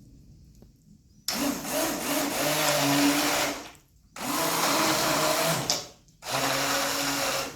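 Electric blender run in three bursts of one to two and a half seconds, with short pauses between, puréeing roasted sweet potato, garlic, basil, chilli, olive oil and pasta water into a pasta sauce.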